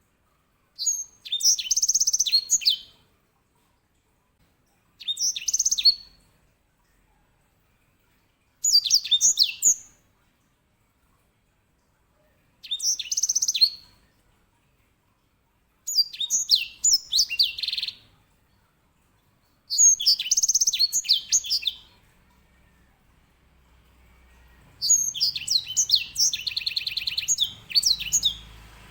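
Grey singing finch (edel sanger, Serinus leucopygius) singing its loud rolling song: seven high-pitched phrases a few seconds apart, each a quick run of notes with fast trills, the last phrase the longest.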